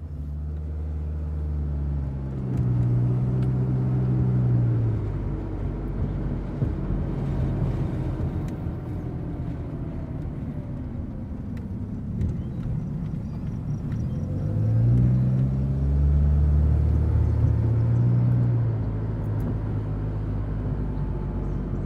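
A motor vehicle's engine running under load, its pitch rising and falling with a deep rumble, loudest twice: a few seconds in and again about two-thirds of the way through.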